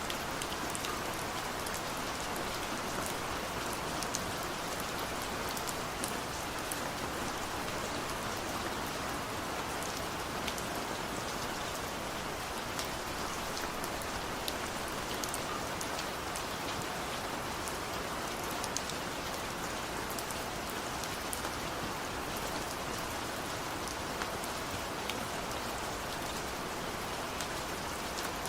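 Heavy rain falling steadily, a dense even hiss with the sharp ticks of individual drops striking a surface.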